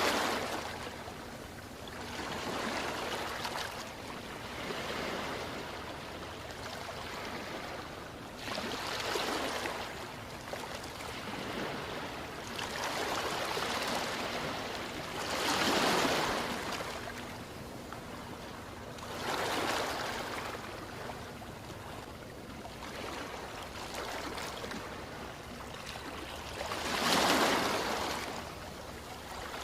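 Ocean surf: waves wash in and break one after another, each a swelling rush of noise every three to six seconds, with the biggest near the middle and near the end.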